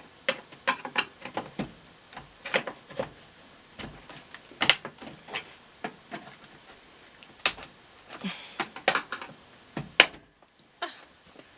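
Irregular sharp clicks and knocks of stiff plastic snap-in tabs being pried and worked loose on an old LG front-load washing machine, the loudest knock about ten seconds in.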